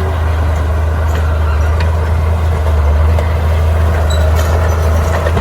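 Bulldozer diesel engine running steadily with a deep, even low hum, with faint scattered clicks and knocks over it.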